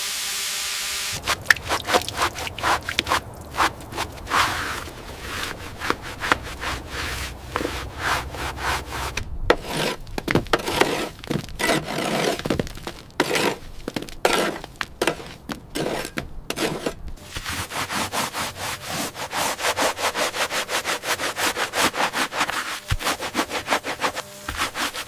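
Hand-worked rubbing and scraping strokes on a hard surface, uneven at first, then a fast, steady back-and-forth of roughly four strokes a second near the end, with a faint low hum under the first half.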